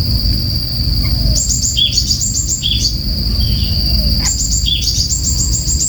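Tengkek kayu kingfisher calling: quick runs of very high, sharp chirps in two bouts, with a few lower chirps between them, over a steady high-pitched whine and a low rumble.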